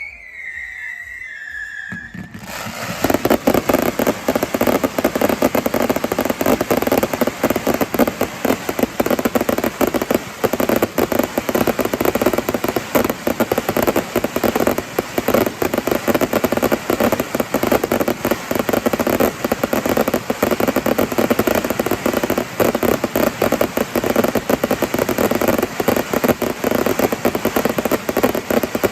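Fireworks finale barrage: a dense, unbroken run of bangs and crackling that starts about two seconds in and keeps up without a pause.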